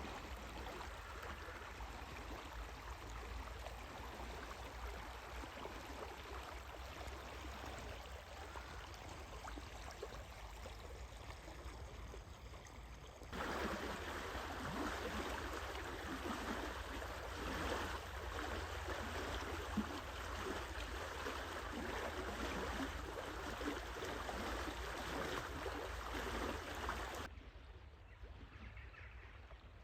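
Small river flowing, a steady rush and babble of water. It turns abruptly louder about halfway through and abruptly quieter near the end, as if cut between takes.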